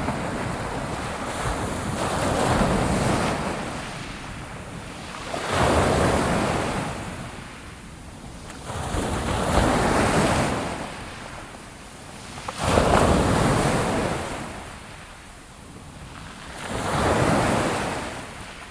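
Sea waves breaking on a shore, each one swelling up and then washing back, about five in a row roughly every three to four seconds.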